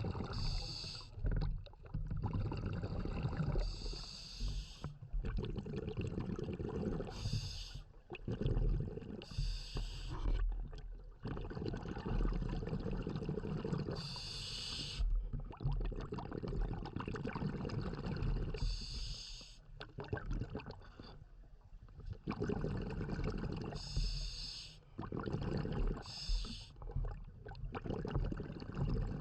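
Scuba diver breathing through a regulator underwater: short hissing rushes of exhaled bubbles come every few seconds, about eight of them, over a steady low rumble of water noise.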